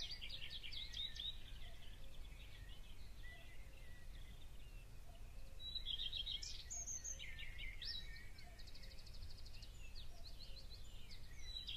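Songbirds chirping and trilling in woodland, with one run of quick, evenly spaced notes near the end, over a faint low steady rumble of background noise.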